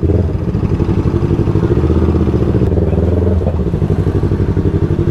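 Yamaha R3's parallel-twin motorcycle engine turning over with a steady, fast, even pulse.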